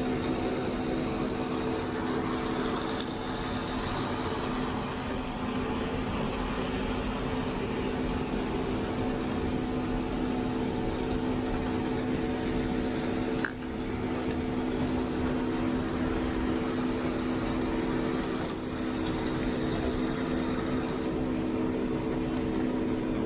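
A machine running steadily: a constant hum made of several steady tones over a hiss, with a brief click about halfway through.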